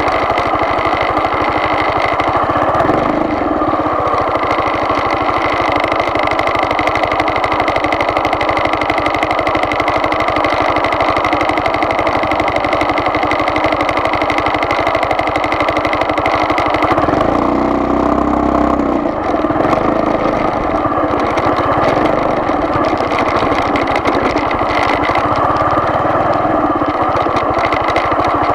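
A vehicle's engine running steadily while driving, with a brief change in the engine note about two thirds of the way through.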